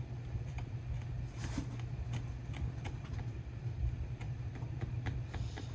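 Scattered light taps and clicks, as of small objects being handled, over a steady low hum.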